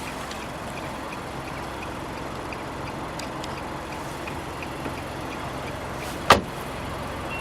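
Nissan Juke Nismo's 1.6-litre turbocharged four-cylinder idling steadily, with faint high ticks repeating about every half second. A car door shuts with a single loud thud about six seconds in.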